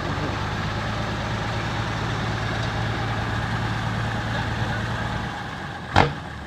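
Dump truck's engine running steadily at idle, then fading away about five seconds in. Near the end comes one brief, loud, sharp sound.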